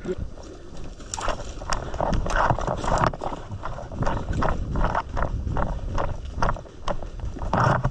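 Footsteps crunching through dry leaves and undergrowth at a brisk walk, about two to three steps a second.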